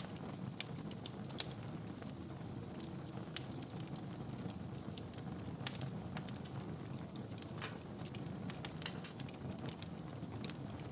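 Wood fire burning in a fireplace: a steady low rumble of flames with irregular crackles and sharp pops of burning logs.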